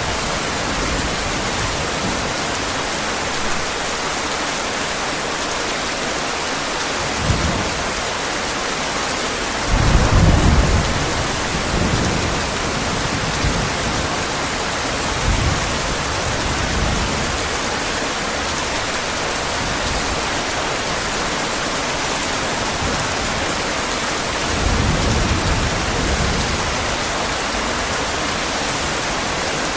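Steady heavy rain falling, with low thunder rumbling three times: briefly about seven seconds in, loudest about ten seconds in for a couple of seconds, and again near the end.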